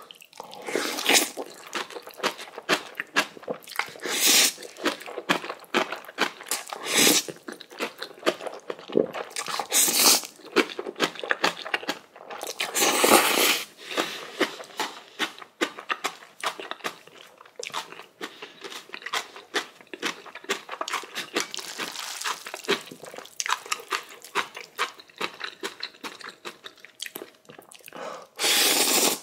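Close-miked chewing and crunching of Chapagetti black-bean instant noodles with crunchy spicy kimchi: a steady run of wet clicks and crunches, broken by several louder rushes of about a second each.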